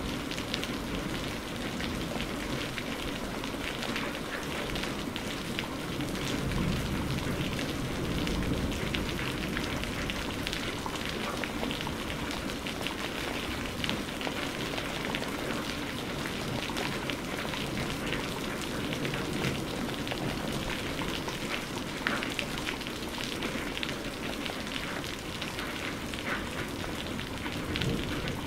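Steady rain falling, an even hiss dotted throughout with sharp ticks of single drops striking a surface.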